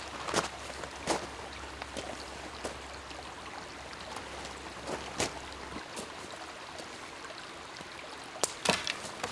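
Lake water lapping and trickling at the shore, a steady wash with scattered small splashes and clicks, two of the sharpest near the end.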